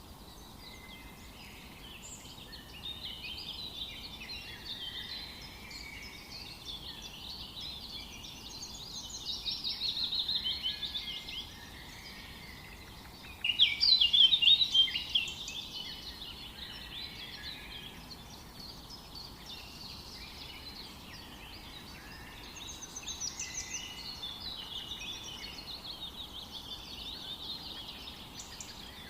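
Several birds singing and chirping together over a soft background hiss, with rapid trills and chirps overlapping throughout. The loudest burst of song comes about halfway through.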